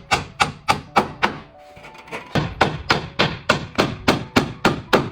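Hammer striking wooden roof boards in quick, even blows, about four a second. There is a pause of about a second near the middle, then the hammering resumes.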